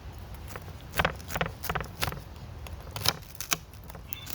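About six sharp clicks and knocks from objects being handled and set down on a camp table, the loudest about a second in and again about three seconds in.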